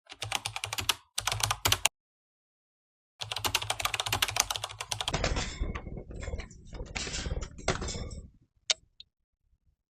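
Rapid computer-keyboard typing in bursts of fast key clicks, broken by short dead-silent gaps.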